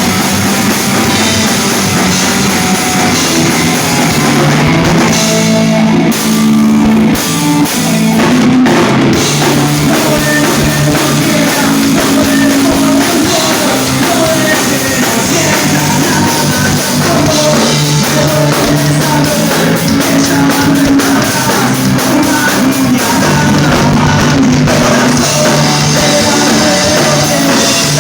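Rock band playing live at full volume: drum kit, electric guitars and bass, with a singer's voice over the top. It thins out briefly about six seconds in before the full band comes back.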